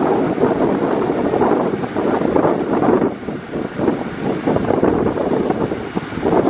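Heavy earthmoving machinery's diesel engine running, with wind buffeting the microphone so the sound swells and dips unevenly.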